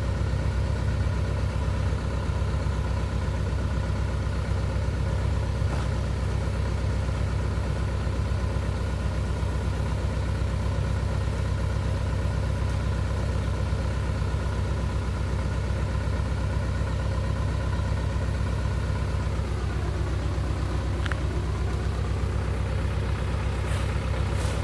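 Truck engine idling steadily. About 19 seconds in, one of its tones sags lower and then climbs back over a couple of seconds.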